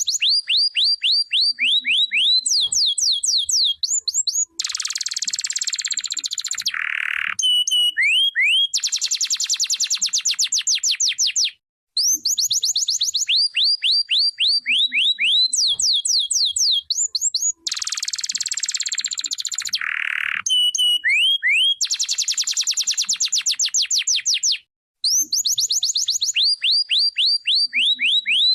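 Domestic canary singing: fast runs of sweeping whistled notes broken by dense buzzing rolls and quicker trills. The same sequence of phrases comes round again about halfway through.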